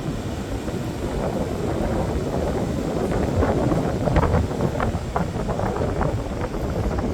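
Wind buffeting the microphone: a steady low rush that swells about four seconds in.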